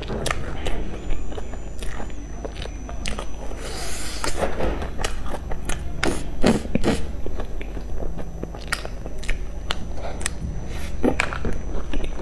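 A person biting into and chewing cream-filled buns with a crumbly, crunchy topping, giving irregular mouth clicks and soft crunches, loudest about halfway through and again near the end.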